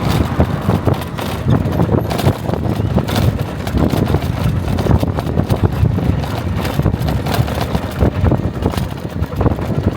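Car engine and road noise while driving, a low rumble with frequent short knocks and rattles running through it.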